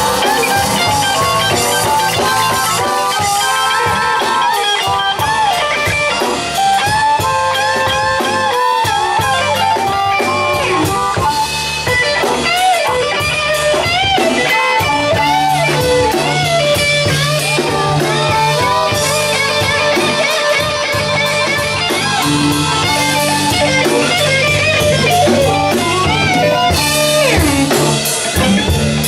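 Live blues band playing an instrumental break: electric lead guitar with bent notes over bass and drum kit.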